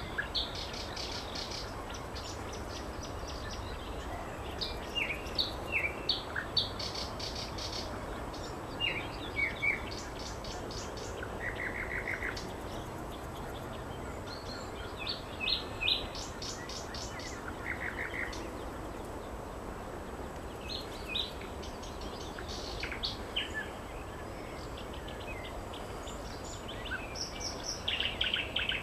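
Nightingale singing in separate phrases of rapid repeated notes, short trills and brief whistled glides, with pauses between phrases, over steady low background noise.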